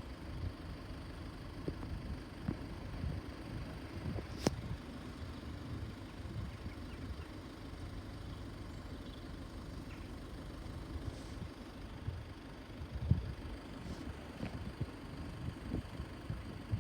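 Low, steady rumble of road vehicle engines, with irregular low thumps and a single sharp click about four and a half seconds in.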